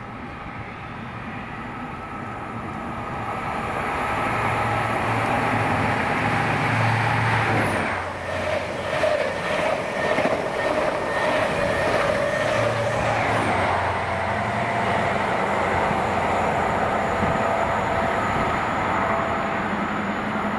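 A train running through a station: a rumble that grows over the first few seconds, then a loud steady run with a series of regular wheel clicks over the rails in the middle.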